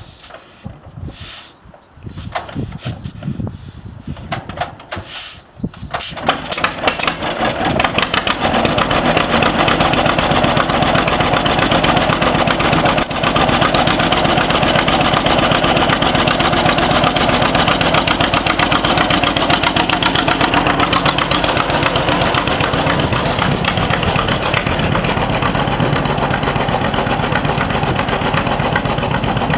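John Deere B tractor's two-cylinder engine being started: a few short noises over the first few seconds, then the engine catches about six seconds in and runs steadily with a rapid, even beat.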